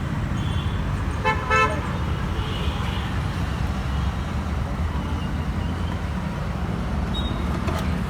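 Road traffic with a steady low rumble, and a vehicle horn tooting once, briefly, about a second and a half in.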